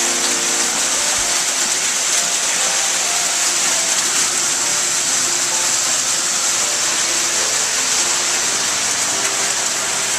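Steady loud hiss with faint background music underneath, soft held notes changing pitch slowly.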